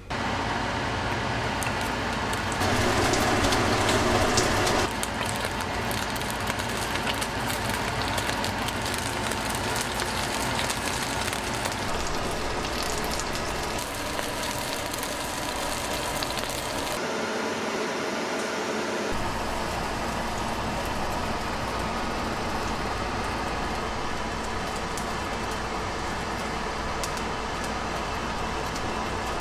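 Pieces of gaper clam frying in oil in a nonstick pan, a steady sizzle with many fine crackles, louder for a couple of seconds near the start.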